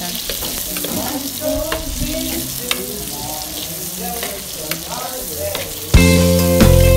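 Pork and chopped tomatoes sizzling in hot oil in a pot, with a spoon stirring through them and clicking and scraping against the pot. Loud music comes in suddenly about six seconds in.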